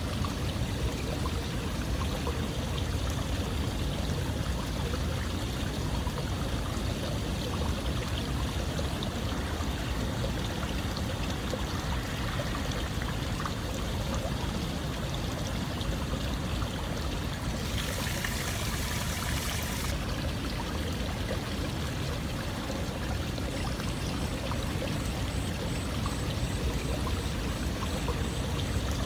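Steady, continuous running water, a dense even rush with no pauses, brightening into a sharper hiss for about two seconds about two-thirds of the way through.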